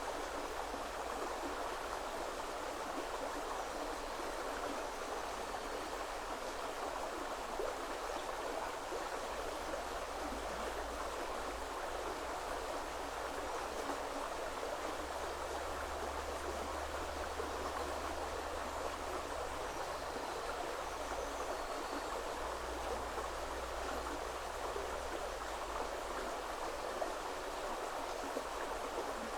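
A shallow river running over stones: a steady, even rush of flowing water with no break.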